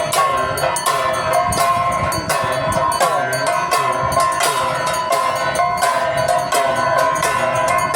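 Aarti bells ringing on and on with a steady metallic ring, over struck percussion hitting about twice a second.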